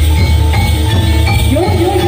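Javanese gamelan-style accompaniment for jathilan dance: struck metallophones ringing in steady notes over a loud, driving drum beat. A sliding melodic line enters about one and a half seconds in.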